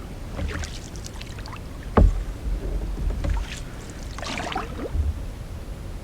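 A sharp knock against the canoe about two seconds in, with water splashing and dripping as a caught pike is let back into the lake.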